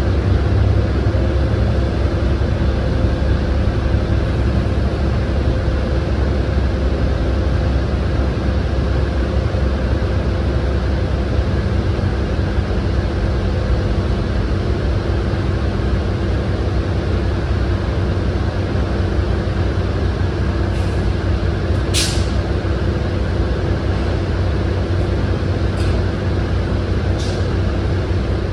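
Steady low rumble of idling railway equipment, with a short sharp burst of air hiss, as from an air brake, about three-quarters of the way through.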